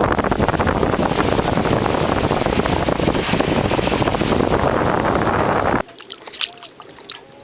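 Wind rushing over the microphone, a loud, even roar that cuts off abruptly about six seconds in, leaving a much quieter background with a few faint clicks.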